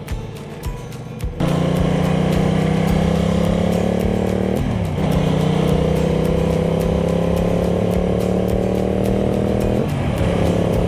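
Ducati Multistrada 1200S V-twin engine pulling hard under acceleration, cutting in sharply about a second and a half in. Its note climbs steadily in pitch and drops briefly twice as the rider shifts up a gear.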